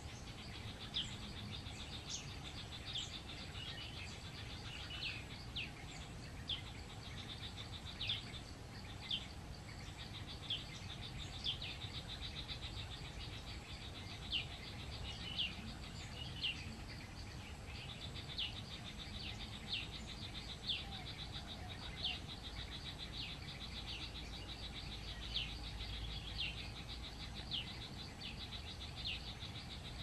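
A small bird calling with short, high, downward-sliding chirps, about one every second or so, over a steady high insect trill in the jungle background.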